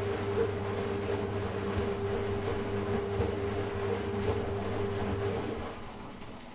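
Philco WE852 washing machine running, a steady whine over a low hum with scattered light clicks, which stops about five and a half seconds in and leaves a faint hum.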